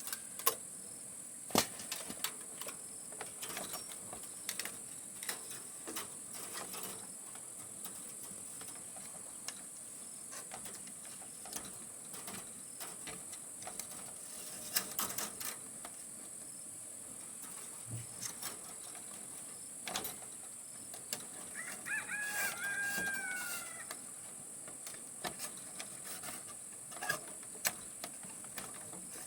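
Scattered light clicks and knocks over a steady high hiss; about two-thirds of the way through, a rooster crows once for about two seconds.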